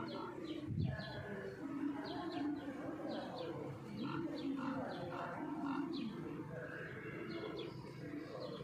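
Small birds chirping in short, repeated calls over a low background murmur of voices, with a dull bump about a second in.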